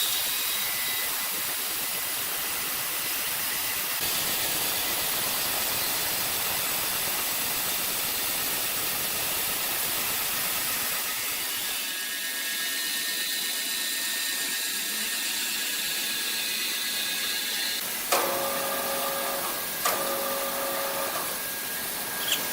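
Machinery running with a steady high hiss, joined by a short pitched whine about eighteen seconds in and again around twenty seconds, each with a light knock.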